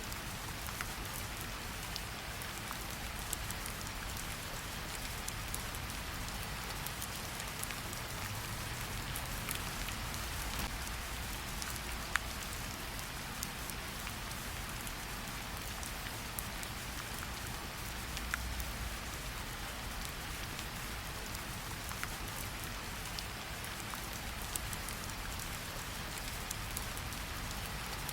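Steady rain falling, an even hiss with scattered sharper drop ticks standing out now and then.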